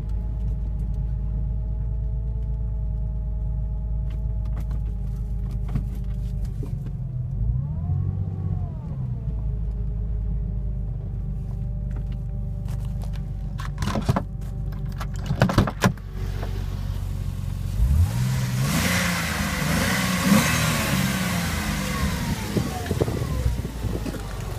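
Porsche Boxster 2.5-litre flat-six engine idling steadily. It is blipped once about a third of the way in and revved again in the last third. A few sharp clicks come in between.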